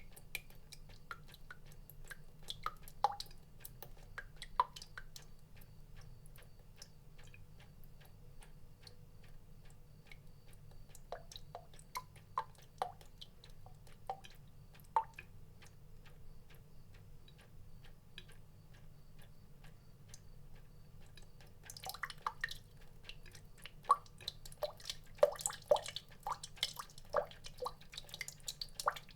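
Water drops plinking at an irregular pace, sparse at first and coming thick and fast from about two-thirds of the way through, over a faint steady low hum.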